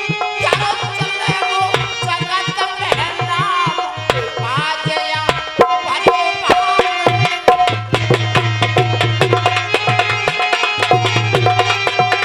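Instrumental folk music interlude: a hand drum keeps a quick steady rhythm under a bending melody line, and a low sustained bass note comes in about eight seconds in.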